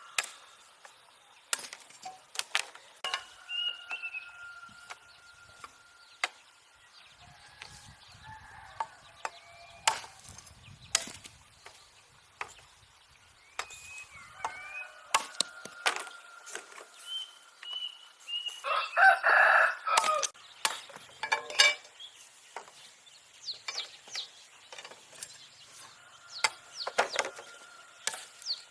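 A rooster crows once, about two-thirds of the way through; it is the loudest sound here. Scattered sharp taps and knocks and thin, high bird chirps fill the rest.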